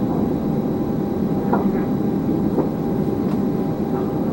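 Steady cabin noise of an Airbus A320 taxiing, heard from inside the cockpit: a constant engine-and-airflow rumble with a thin steady high whine, broken by a few faint clicks.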